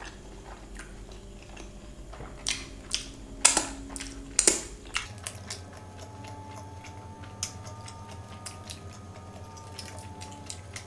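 Close-up mouth sounds of a person chewing food, with several sharp, loud crunches in the middle and softer wet clicks of chewing either side.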